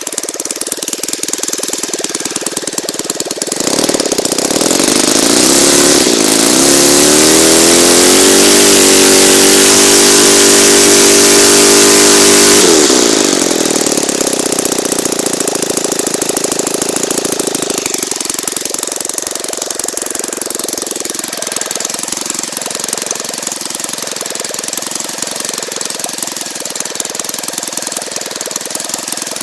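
ASP 160 twin-cylinder model aircraft engine, converted to petrol with CDI spark ignition, running. It idles, is throttled up with a rising pitch to full speed a few seconds in, holds there for a few seconds, then drops back to a low, steady idle. It makes a clean transition, idle and top RPM, typical of a freshly run-in engine with its needles set.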